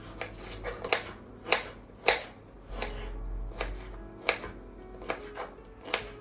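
Kitchen knife chopping on a cutting board: a series of separate, unhurried cuts, roughly one or two a second and unevenly spaced, over soft background music.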